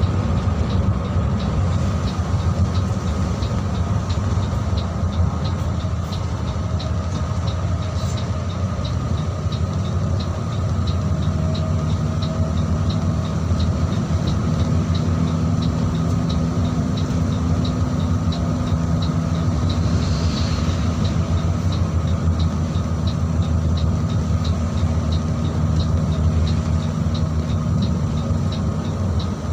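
Mercedes-Benz OH 1626 bus's six-cylinder diesel running under way, with steady road rumble, its engine note firming up from about ten seconds in. A light ticking repeats evenly throughout.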